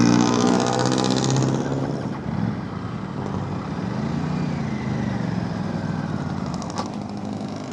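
Motorcycle engine running, loud for the first two seconds, then settling to a quieter idle with a brief rise and fall in pitch around the middle.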